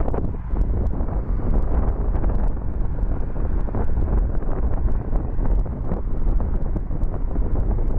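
Wind buffeting the microphone of a camera riding along on a moving bicycle: a steady low rumbling roar, with faint small clicks and rattles scattered through it.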